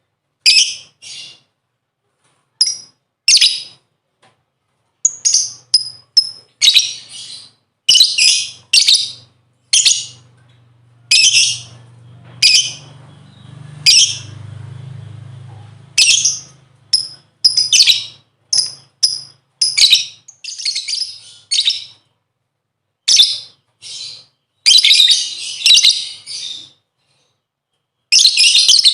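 Lovebird giving loud, shrill chirps in short bursts, one after another with brief gaps, with a denser run of chirping near the end. A faint low hum sits under the calls around the middle.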